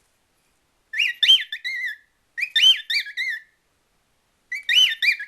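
Cockatiel whistling: three short phrases of quick up-and-down whistled notes, the first starting about a second in.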